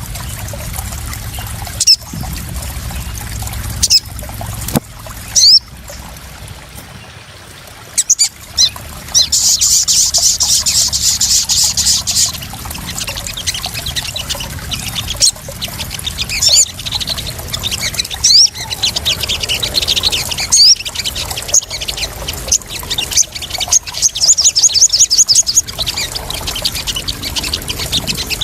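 Sogon (crimson sunbird) calling in rapid high trills, in several bouts, over splashing and trickling water. The louder trill bouts come about a third of the way in and again near the end, with a quieter stretch before the first.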